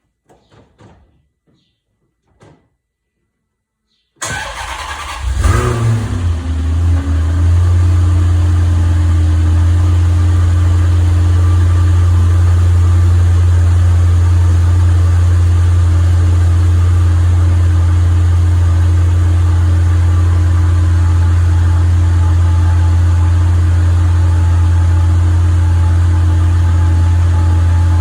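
2003 Maserati 4200 GT's 4.2-litre V8 cold-starting after two months standing: after a few faint clicks, the starter cranks briefly about four seconds in, the engine catches with a rev flare and settles into a steady idle.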